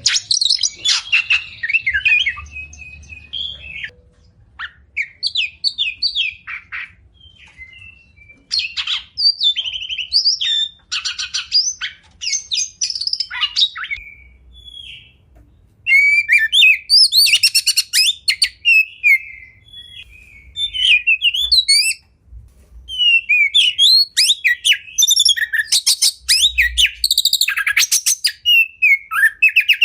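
Oriental magpie-robin (kacer) singing a varied, loud song of sharp whistles, rapid trills and chattering phrases. It comes in bursts with brief pauses between them.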